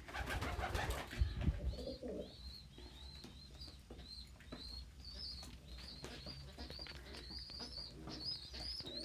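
Pigeon squabs begging with a rapid run of short, high-pitched squeaks, several a second, starting about three seconds in, the sound of young being fed by a parent. Before that comes a brief burst of rustling noise.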